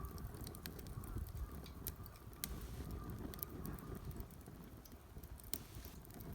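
Wood fire burning in a Solo Stove Campfire, a double-walled stainless-steel secondary-combustion stove: irregular sharp crackles and pops over a low steady rumble.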